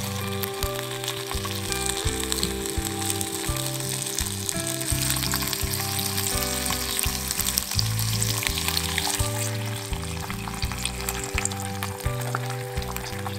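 Sliced ham sizzling in hot oil in a nonstick frying pan, a steady crackle with many small pops. Background music with low bass notes plays underneath.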